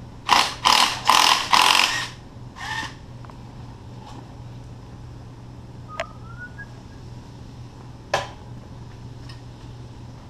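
Corded electric impact wrench with a 12 mm socket run in short bursts to loosen bolts on the engine: four quick bursts, then a shorter one, a sharp click about six seconds in and one more short burst near the end.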